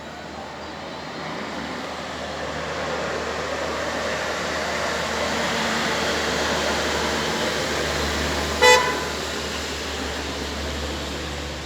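A motor vehicle approaches and passes, its noise swelling and then easing. About three-quarters of the way through, a car horn gives one short toot, the loudest sound.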